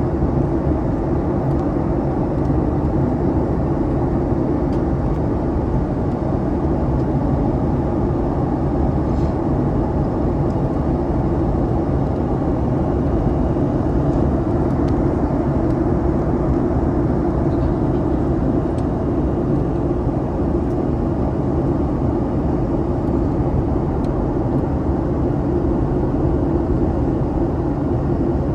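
Cabin noise inside a Boeing 737 MAX airliner: a steady, even drone of the jet engines and rushing air, with no change in level.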